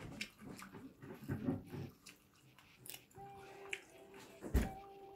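Close-up eating sounds: wet chewing, lip smacks and small clicks, busiest in the first half. From about three seconds in, a steady high whine comes and goes, and a single heavy thump falls a little after four and a half seconds.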